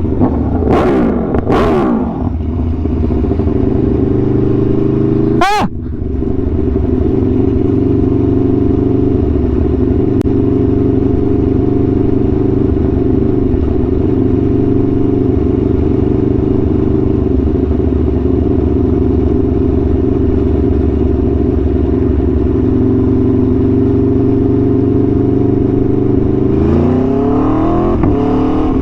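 Aprilia Tuono V4 1100's V4 engine through an SC-Project exhaust, under way: the revs drop in the first two seconds, then hold steady at a cruising speed, and near the end climb as the bike accelerates.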